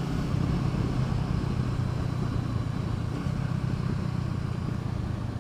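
Honda CBR500R's parallel-twin engine running steadily at cruise, heard from the rider's chin-mounted helmet microphone.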